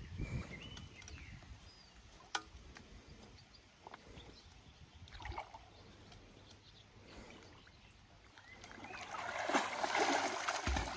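Water splashing and sloshing as a person goes into cold water, quiet at first and building to the loudest splashing about nine to ten seconds in.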